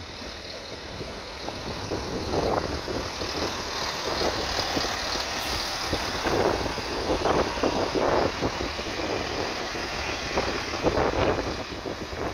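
A train moving through the station, its running noise building over the first two seconds and then holding, with wind buffeting the microphone.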